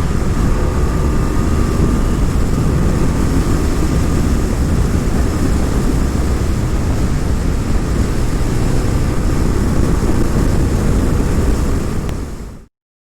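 Loud, steady wind rush on a helmet-mounted action camera's microphone at speed, with a BMW F800ST motorcycle's 798 cc parallel-twin engine running underneath. It stops abruptly near the end.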